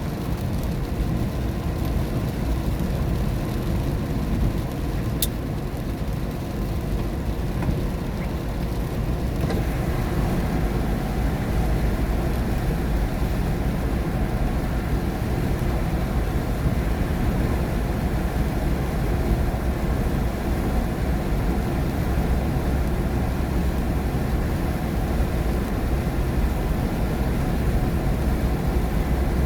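Steady road noise inside a car driving on a wet road in rain: tyres running on the wet surface and the car moving at speed, an even hiss heaviest in the low range. One short click comes about five seconds in.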